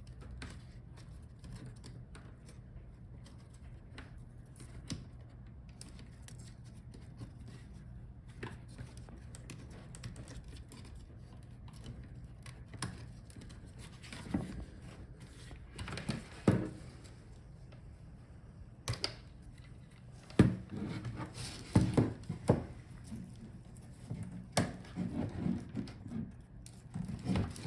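Handling noise of laptop parts: scattered clicks, taps and knocks of the plastic case and hinges as the screen assembly is worked free of the palmrest. Sparse and faint at first, the knocks come more often and louder in the second half.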